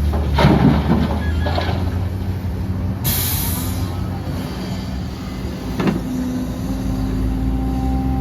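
Heavy diesel engine of earthmoving machinery running low and steady, with a few knocks and a short loud hiss of air about three seconds in, like an air-brake release.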